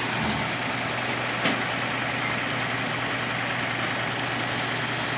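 A motor vehicle running with steady engine and road noise and a low steady hum, with one short sharp click about a second and a half in.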